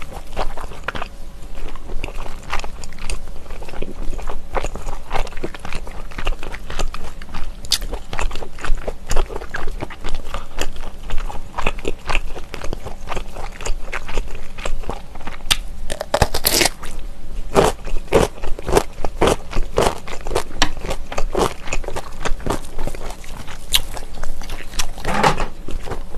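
Close-miked eating of smoked pork belly and ponytail-radish kimchi: steady wet chewing and biting with sharp crunches, thickest and loudest a little past the middle.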